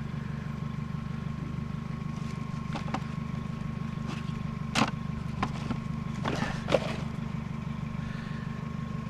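A vehicle engine idling steadily in the background, with a handful of short sharp clicks and rustles from items being handled in a junk pile.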